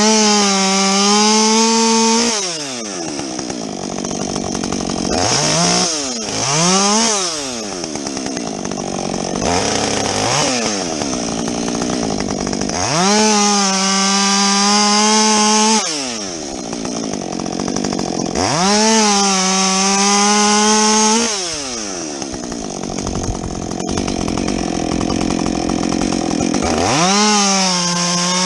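Husqvarna 562XP two-stroke chainsaw with a modified muffler, revved to full throttle and held there for two to three seconds at a time, four times, while bucking logs. Between the cuts it drops back to idle, with a few quick blips of the throttle.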